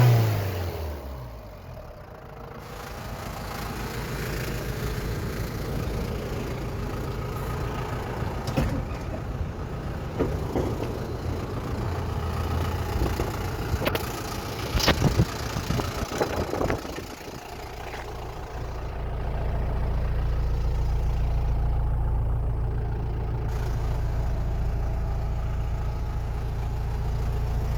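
Toyota Dyna truck engine dropping from a rev and running. A few sharp clicks come in the middle, then it settles into a steady, louder idle for the last third.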